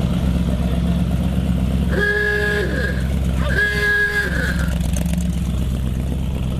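A car engine running steadily with a low rumble, and a car horn sounding two blasts, each under a second long, about two and three and a half seconds in, their pitch sagging as each blast ends.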